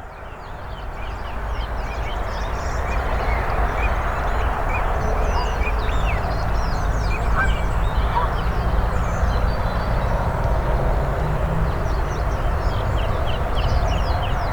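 Morning bird chorus: many small birds chirping and trilling in quick, scattered high calls over a steady low rumble. The sound fades in over the first couple of seconds, and a low steady hum joins the rumble about six seconds in.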